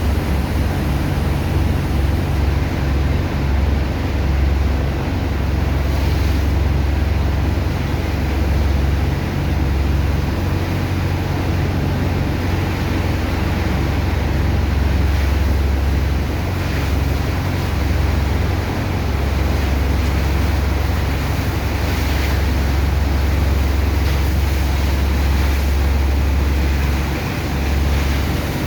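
Sand dredger's engine-driven water pump running steadily with a loud low drone that wavers in level, over a constant rush of water and sand slurry.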